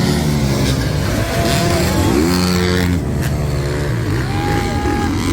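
Several dirt-bike engines revving and accelerating together at a race start, their pitches rising and falling over one another, with a sharp crack about three seconds in.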